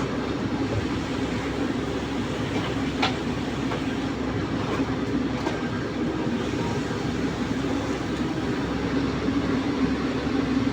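Komatsu PC130-10 excavator's diesel engine and hydraulics running steadily under work, with a single sharp knock about three seconds in.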